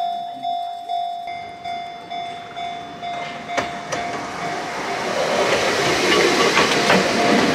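Railway level-crossing warning bell ringing in a steady pulse about twice a second. Then an Enoshima Electric Railway (Enoden) train approaches and passes close by, and the rumble and wheel clatter swell to the loudest part near the end.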